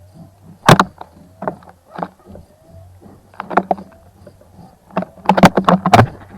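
A wild bird bathing in a bird bath, splashing water in quick flurries: a sharp splash under a second in, a few more through the middle, and a dense run of splashes near the end.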